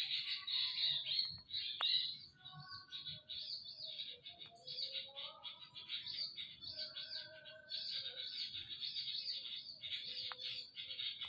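Birds chirping rapidly and continuously in a dense, high twittering, with scattered lower whistled notes among it.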